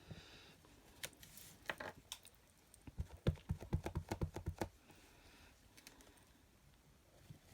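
Rubber stamp on a clear acrylic block being tapped repeatedly onto an ink pad to ink it: a quick run of light, rapid taps a few seconds in, after a few scattered clicks and handling noises.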